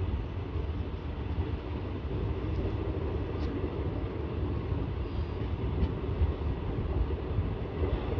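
Passenger train running along the track, a steady low rumble of wheels on rail heard from an open coach doorway, with a few faint clicks.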